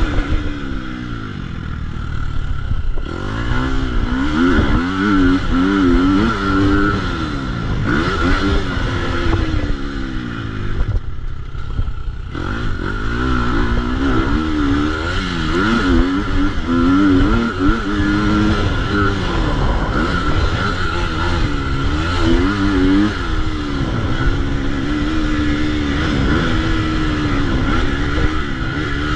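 2022 KTM 250 SX-F four-stroke single-cylinder motocross engine being ridden hard, its pitch repeatedly climbing under throttle and falling away as the rider shifts and shuts off. About eleven seconds in the engine briefly drops off before picking up again.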